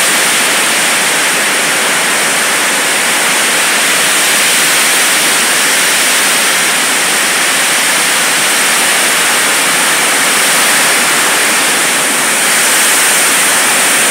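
Heavy rain pouring down, a steady loud hiss, heard from under a corrugated metal roof.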